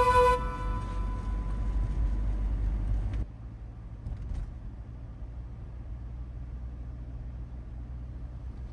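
Low, steady road rumble of a car driving, dropping to a quieter level about three seconds in.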